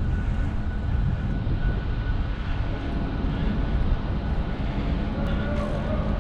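Road traffic with a steady low rumble and vehicle engine hum; a faint held tone joins about five seconds in.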